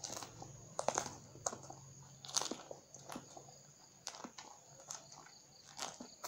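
Raw round green eggplant being bitten and chewed: irregular crisp crunches, the loudest about a second in and again near two and a half seconds.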